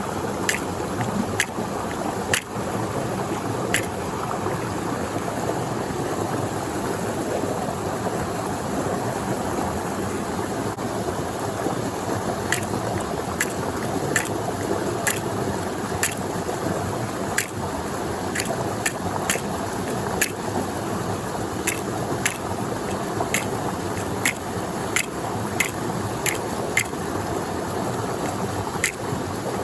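Iwana pieces deep-frying in hot oil for karaage: a steady sizzle with sharp pops and crackles scattered irregularly throughout.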